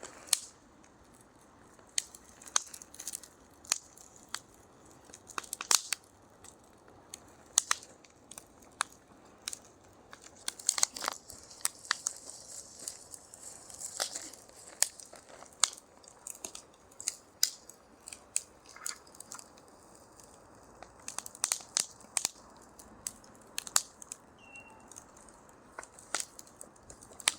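Wood fire crackling, with irregular sharp pops and snaps of varying loudness over a faint hiss.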